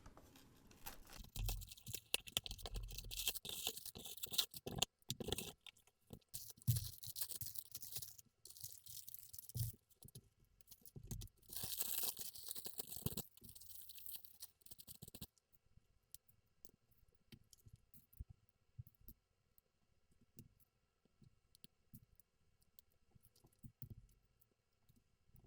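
Packaging being torn open and rustled, with crinkling plastic and cardboard, for about the first fifteen seconds. After that come only scattered faint clicks of LEGO pieces being handled and pressed together.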